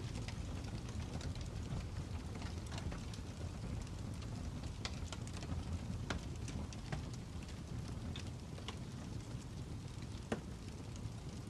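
Fire crackling: a steady low rumble with irregular sharp pops and snaps scattered through it, the loudest pop about ten seconds in.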